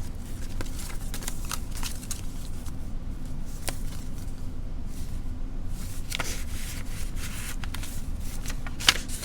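Paper rustling as handmade junk-journal pages, envelopes and tucked cards are handled and turned, with scattered light taps and one sharper tap near the end, over a steady low hum.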